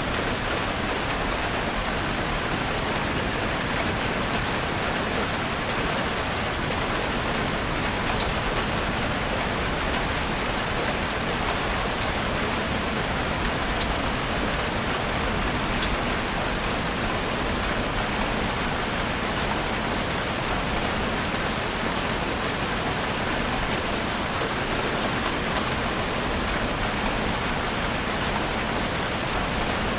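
Heavy rain drumming steadily on a roof, a dense even hiss with scattered individual drop ticks.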